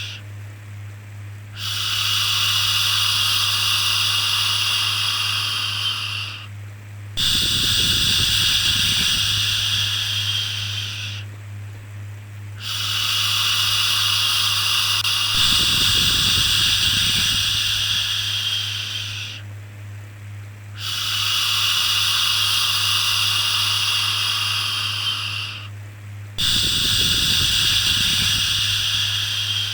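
Repeated long "shhh" shushing sounds, made to soothe a baby, each lasting several seconds with about a second's pause between them. A steady low hum runs beneath.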